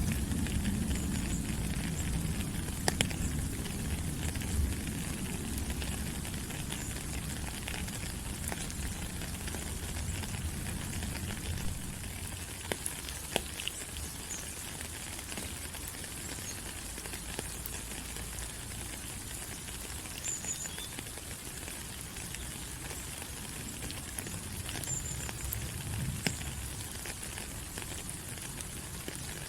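Steady rain falling on rainforest foliage, an even hiss with scattered sharper drip ticks. A low rumble sits underneath in the first few seconds and swells again briefly near the end.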